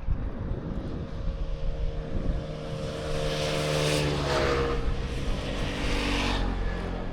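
A motor vehicle passing close by: its engine note grows louder, drops in pitch about four seconds in as it goes past, and fades, with a hiss of tyre noise while it is nearest.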